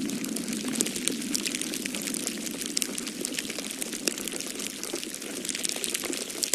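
Wood fire crackling in a fireplace, with frequent small irregular pops and snaps. Beneath them runs a steady low rush of snowstorm wind.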